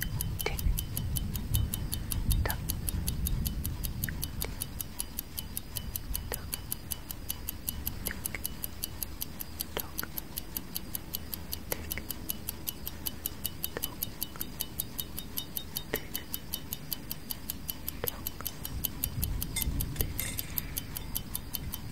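Clock sound effect ticking steadily: a fast, even run of light ticks with a louder tick about every two seconds, over a low rumble.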